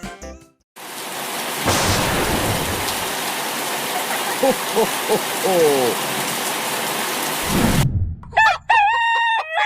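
Steady heavy rain with two low rolls of thunder, one about two seconds in and one near the end, and a few chicken clucks midway. Near the end a rooster crows, starting as the rain stops.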